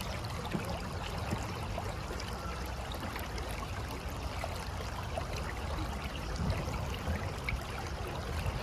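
River water flowing: a steady rush of running water, dotted with small splashes and trickles.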